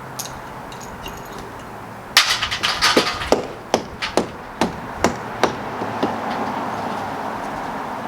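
A hammer striking about a dozen times over some three seconds, starting a couple of seconds in: a quick flurry of blows, then slower, evenly spaced ones. A steady background noise runs underneath.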